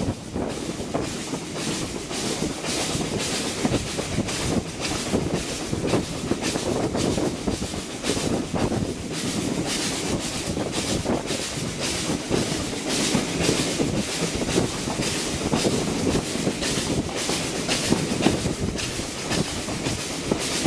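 Passenger train running at speed, heard from an open carriage window: a continuous rumble of wheels on rail with wind, cut by an even rhythm of sharp beats a few times a second.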